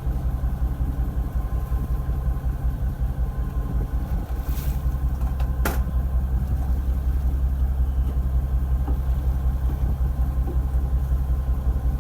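A fishing boat's engine running steadily with a low rumble, with a brief sharp click a little past halfway.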